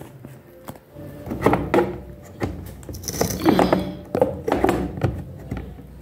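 Scattered clicks and knocks of a fitting on a washing machine's water line being unscrewed and handled by hand.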